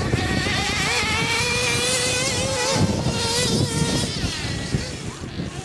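Small nitro glow engines of radio-controlled race cars buzzing at high revs, their pitches rising and falling as the cars throttle up and back off. Several engines overlap at different pitches.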